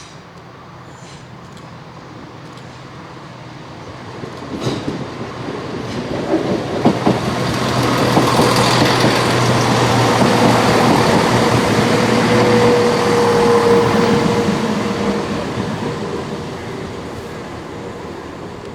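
A passenger multiple-unit train goes by, growing louder, at its loudest midway, then fading away. Its wheels click over rail joints as it comes in, and a steady drive hum sounds underneath.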